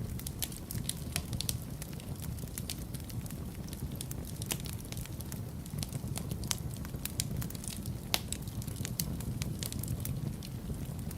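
Wood fire burning in a fireplace: a steady low rumble with frequent irregular crackles and sharp pops, the loudest pops about four and a half and eight seconds in.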